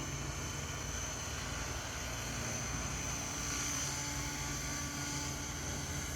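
SAB Goblin Raw 700 electric model helicopter in flight: a steady high whine over a low rotor hum, the whine swelling briefly about midway.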